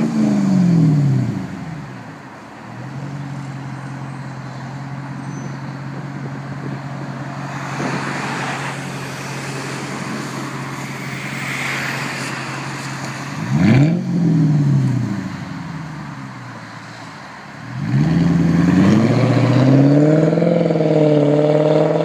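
2002 Mercedes SL500's V8 running through a custom straight-through exhaust with quad tailpipes. It falls back from a rev to a steady idle, then gives one sharp blip about two-thirds of the way in that drops back to idle. In the last few seconds it is held at higher revs that rise and fall.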